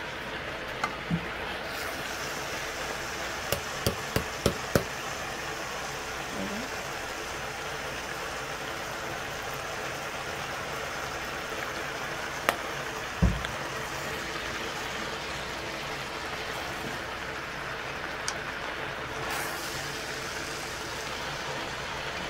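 Garlic, ginger paste and curry powder frying in a large pot with a steady sizzle. Several sharp knocks of a wooden spoon against the pot come in a quick cluster around four seconds in, with a duller thump about thirteen seconds in.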